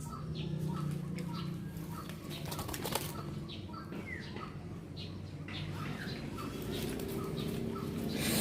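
Bird calls: short notes repeating evenly about three times a second, with fainter higher chirps over them and a steady low hum beneath.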